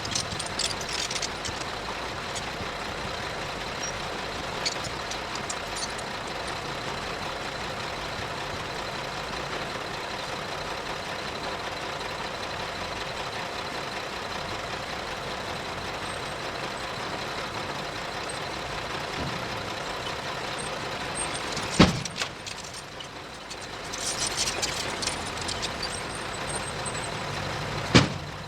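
Diesel engine of heavy earth-moving machinery running steadily, with bursts of hissing near the start and again later. Two sharp bangs about six seconds apart near the end.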